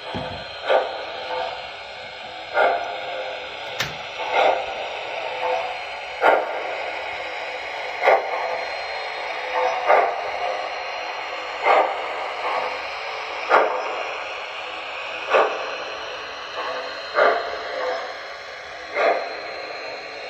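MTH Nickel Plate Road 599 model steam locomotive's PS2 sound system playing slow, evenly spaced steam chuffs, about one every two seconds, through its onboard speaker over a steady hiss. A sharp click sounds about four seconds in.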